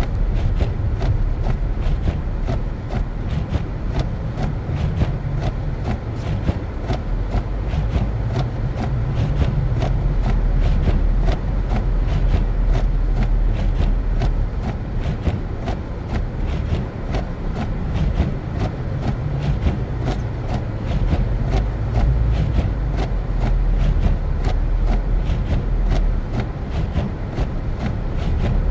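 A car driving on snow-covered roads: a steady low rumble of engine and tyre noise, with a dense scatter of small ticks and crackles throughout.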